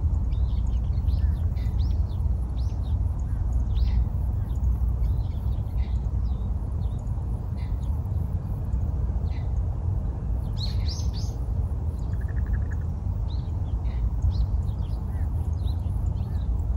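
Scattered short bird chirps, with a brief flurry of louder chirping about ten to eleven seconds in, over a steady low rumble.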